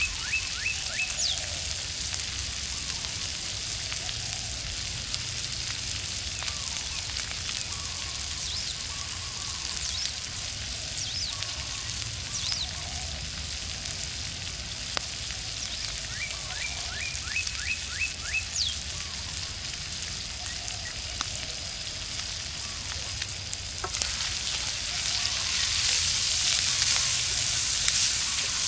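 Food frying over a campfire, a steady sizzle that gets louder a few seconds before the end.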